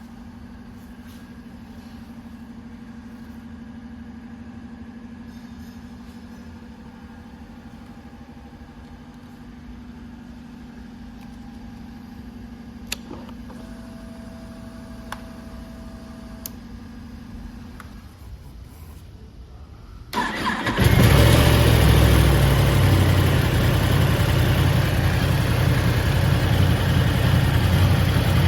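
Yamaha YZF-R1's inline-four engine starting about two-thirds of the way in and settling into a loud, steady idle. Before it starts there is only a faint steady hum and a few small clicks.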